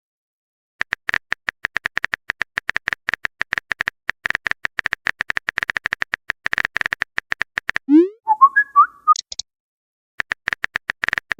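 Rapid runs of phone-keyboard typing click effects, each tap a short high tick. About eight seconds in, a short rising blip and a brief chiming message-notification tone sound, as a message is sent.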